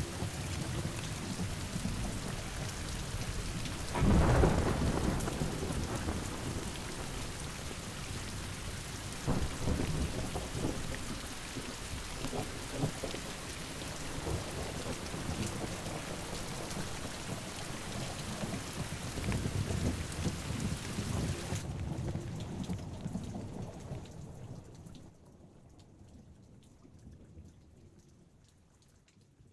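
Heavy rain pouring down with rolling thunder; a loud thunderclap about four seconds in, with further rumbles later. The storm sound fades away over the last few seconds.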